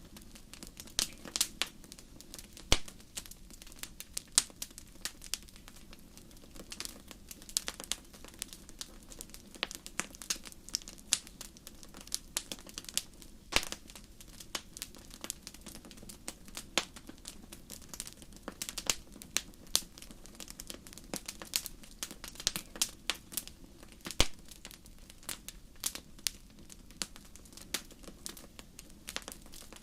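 Wood campfire crackling, with sharp irregular pops every fraction of a second over a low steady rumble of the burning fire.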